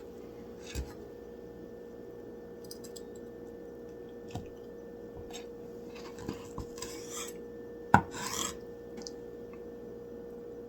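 Knife sawing through a bacon-wrapped chicken piece in short rasping strokes, with a few clicks of cutlery on the plate, the sharpest about eight seconds in, over a low steady hum.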